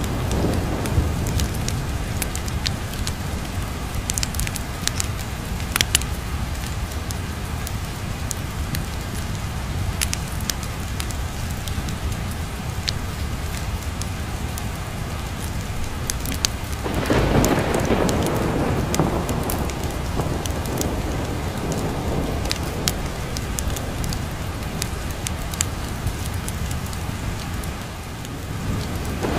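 Steady heavy rain with scattered sharp crackles, and a roll of thunder that swells a little past halfway and slowly dies away; another rumble starts building at the very end.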